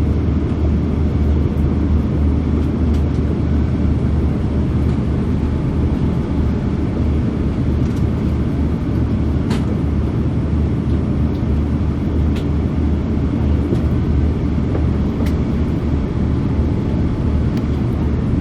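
Steady cabin drone of an Airbus A340-600 airliner, its four Rolls-Royce Trent 500 engines and the airflow making a deep, even rumble, with a few faint ticks.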